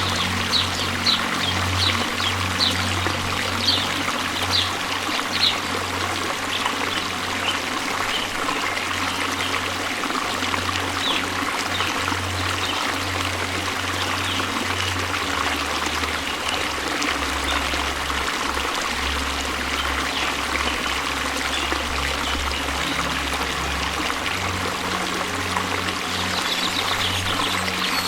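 Waterfall water rushing steadily, with splashing and trickling. Over the first five seconds there is a run of short high ticks about twice a second. A low steady hum underneath drops in pitch about fifteen seconds in and returns near the end.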